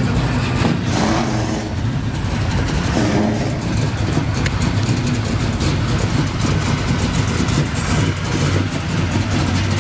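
Muscle car engine running steadily at low revs, close by.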